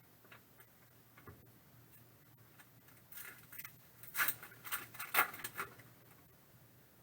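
A trading card pack being handled and opened: a run of short, sharp crinkles and rustles of the foil wrapper and cards, loudest about four and five seconds in, after a few faint clicks.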